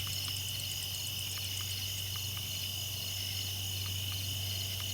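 Crickets chirping steadily, a high continuous trill with a faster pulsed chirp repeating several times a second above it, over a low steady hum and a few faint ticks.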